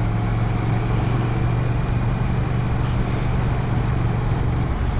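Motorcycle engine running steadily with a low, even note under wind and road noise; near the end the engine note drops lower.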